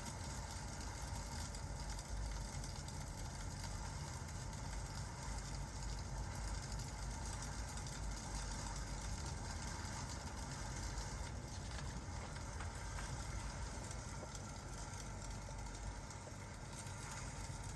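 Steady rain and crackling-fireplace ambience: an even hiss over a low rumble, unchanging throughout.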